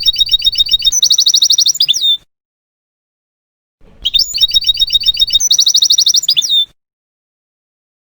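European goldfinch singing. Each phrase is a quick run of high twittering notes, then a fast trill, ending in a falling note. The phrase comes twice, the same each time, with silence between.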